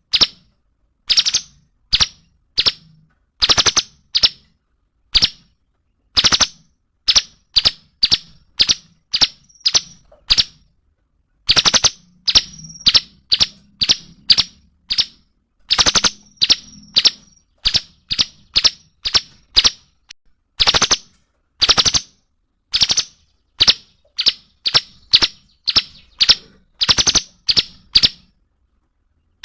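Cungkok bird calling continuously with loud, sharp, very short notes, given singly and in quick rapid-fire runs of two to five: the 'nembak' (shooting) style of song.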